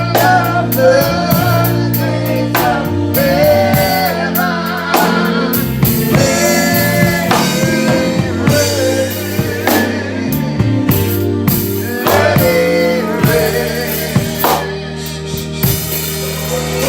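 Live church gospel music: drum kit keeping a steady beat under sustained low chords, with a wavering melody line over the top.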